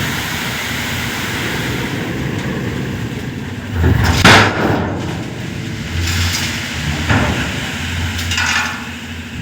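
Heavy dump truck running, with a loud bang about four seconds in and several lighter knocks after it.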